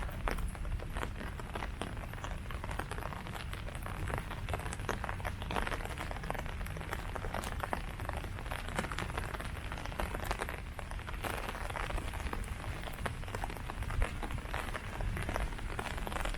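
Steady rain falling on leaves, a dense patter of many small drop hits over a low rumble.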